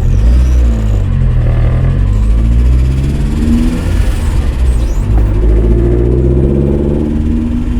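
1993 Vauxhall Astra's C14SE 1.4-litre 8-valve multi-point-injection four-cylinder engine accelerating: the revs climb for about three and a half seconds, fall back, then climb again. The engine has noisy hydraulic lifters and an occasional light misfire under acceleration, according to its owner.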